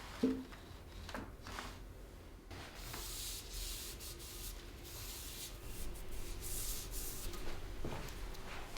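Hand sanding of a metal vise part: a dry, scratchy rubbing in uneven strokes that starts about two and a half seconds in, after a light knock near the start.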